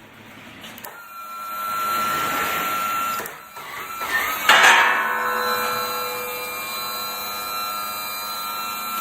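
Skid steer running its hydraulic drive, a steady machine sound with a constant whine. It grows louder about a second and a half in, dips briefly near three seconds, and runs louder again from about four and a half seconds.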